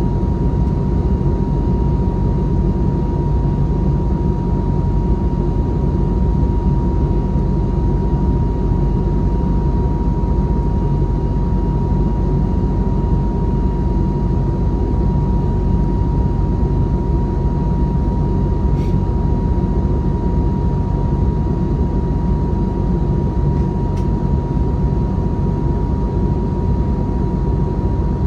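Steady cabin noise inside an Airbus A321neo airliner in flight: a deep engine and airflow rumble with a faint steady whine running through it.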